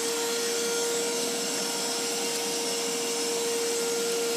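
Mini vacuum cleaner running steadily at full speed, a constant hum over a hiss, sucking up spilled cereal from a carpet.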